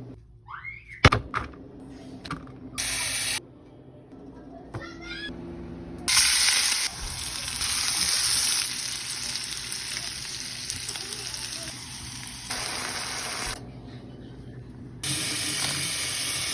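Food frying in hot oil, sizzling in several stretches of hiss that start and stop abruptly. A few sharp clicks and knocks come about a second in.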